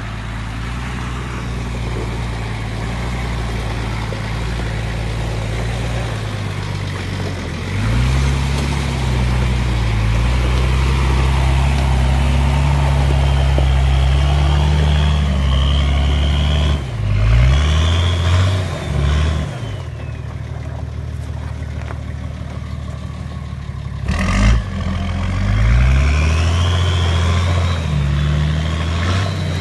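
Truck engine pulling under load as it drives, its note climbing steadily and then dropping sharply at several gear changes, about eight seconds in, a few times around seventeen to nineteen seconds, and again near twenty-four seconds.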